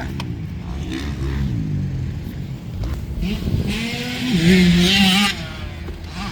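Motocross dirt bike engines running; one revs up about three seconds in and holds high revs, the loudest part, for over a second before backing off.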